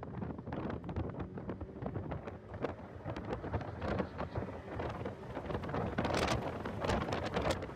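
Heavy wind buffeting and crackling on the microphone of a car at track speed, with vehicle noise underneath; the buffeting grows louder near the end.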